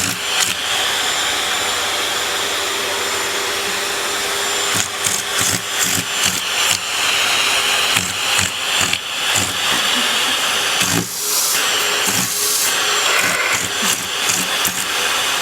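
Vacuum cleaner running steadily. From about five seconds in, frequent knocks and bumps sound over it, and the motor sound drops briefly about eleven seconds in.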